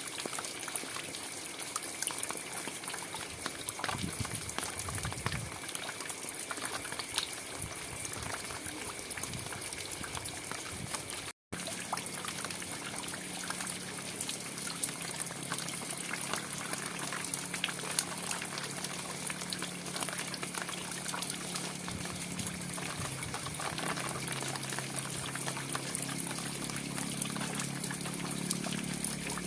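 Steady rain with many small drips and ticks of drops landing. The sound cuts out for a split second about 11 seconds in, then carries on with a low steady hum underneath.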